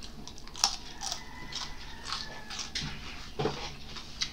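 Close-up chewing and crunching of crispy fried danggit (dried fish), with irregular crackling bites, the sharpest about half a second in and another near three and a half seconds.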